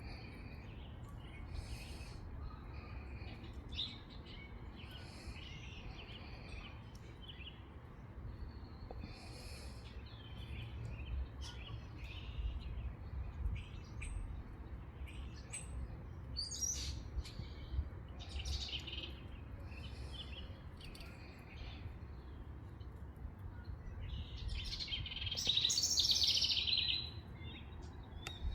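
Several songbirds chirping and singing in short, scattered calls, with one louder, busier run of song near the end. A low, steady rumble runs underneath.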